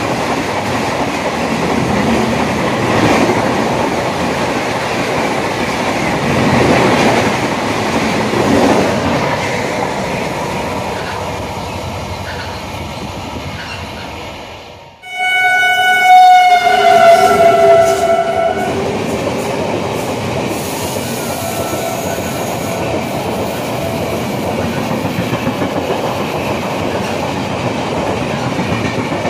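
Express passenger train coaches rushing past on the rails, the noise slowly fading as the train draws away. After a sudden cut about halfway, a locomotive horn sounds one long blast of about three seconds, then another train's coaches run past with a steady clickety-clack of wheels over rail joints and a shorter, fainter horn blast a few seconds later.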